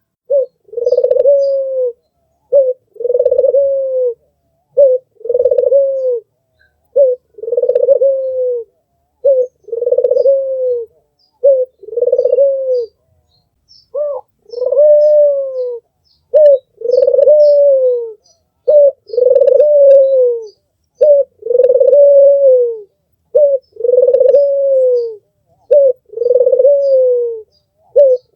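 Albino puter (ringneck dove) cooing: a short note followed by a longer coo that falls slightly at the end, repeated evenly about every two seconds.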